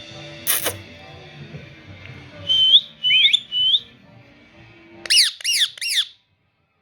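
Ringneck parrot calling: three short, rising whistled chirps, then about two seconds later four loud, harsh screeches in quick succession, each rising and falling in pitch. A sharp click sounds about half a second in.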